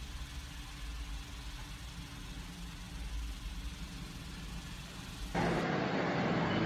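A car engine idling with a low, steady rumble. About five seconds in it cuts off suddenly into louder street traffic noise.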